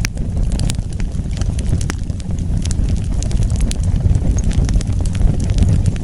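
Wood fire crackling: frequent sharp, irregular pops and snaps over a steady low rumble of burning.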